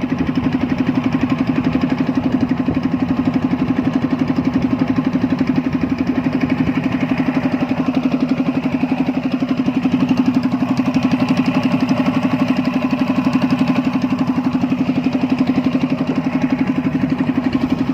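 An engine running steadily at an even speed, with a fast regular pulse and a low hum.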